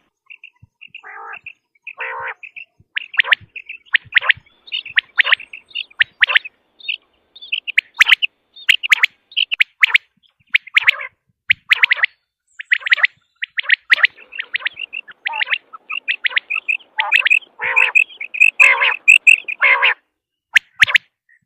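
Quail calling over and over in short, sharp notes grouped in quick runs, a call used to lure quail for hunting. A few louder, rougher calls come about two seconds in and again near the end.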